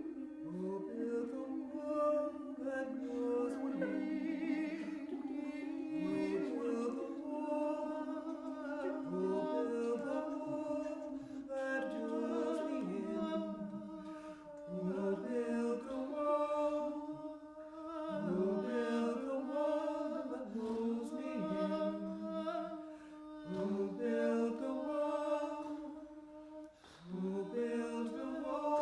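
A cappella choir singing wordless improvised harmony: a steady held low drone under shifting, overlapping higher voices, with a brief drop in level near the end.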